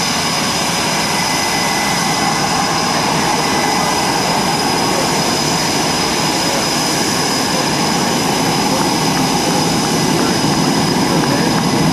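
Military jet aircraft engines running with a steady roar and a high whine, growing a little louder near the end.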